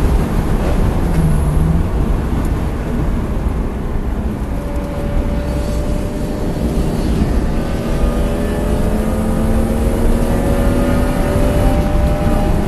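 BMW E36 engine, with road and wind noise, heard from inside the cabin at track speed. The engine is a little quieter through a corner a few seconds in, then its pitch climbs steadily as the car accelerates out onto the straight.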